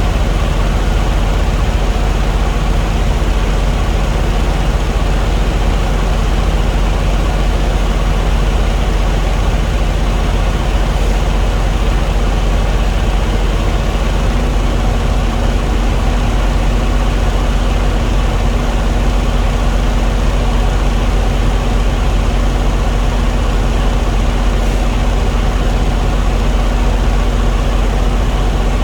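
Diesel engine running at a steady idle, a loud unbroken low drone. About halfway through, a steady higher hum sets in over it.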